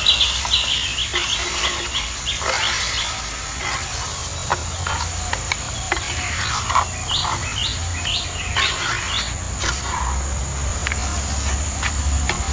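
Birds chirping in quick runs of short, repeated notes, once in the first few seconds and again about halfway through, over a steady high tone and a low hum.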